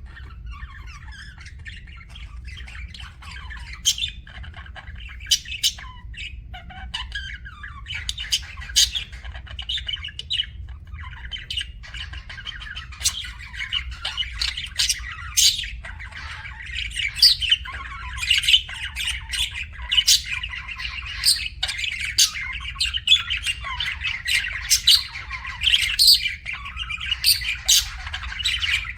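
Budgerigars chirping continuously, with many sharp short squawks among the chirps; the calls grow busier about halfway through. A steady low hum runs underneath.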